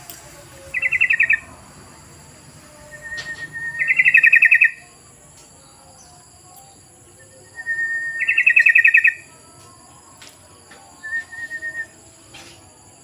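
Yellow-vented bulbul (trucukan) calling: four short bursts of rapid, bubbly chattering, the second and third longer and loudest. A faint steady high-pitched tone runs underneath.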